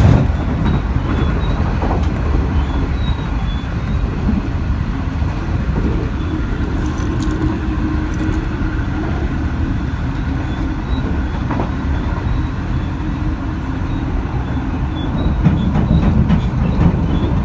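Steady rumble of a moving H-set passenger train carriage running along the track, heard from inside. The rumble grows louder near the end.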